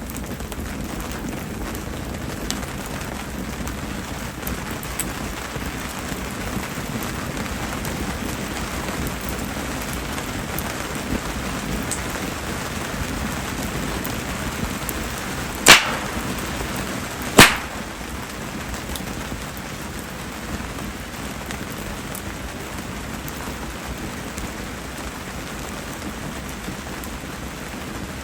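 Steady rain falling, with a wood fire of Japanese spindle-tree (mayumi) logs burning, a wood that burns almost without crackling. Two sharp cracks ring out a little past the middle, about a second and a half apart.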